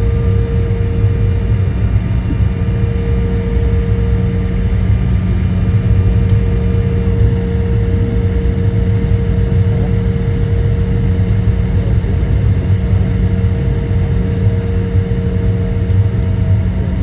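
Cabin noise inside an Embraer 175 jet: a steady rumble of its twin turbofan engines and the airflow, with a steady whine. Some of the higher tones in the whine drop away about seven seconds in.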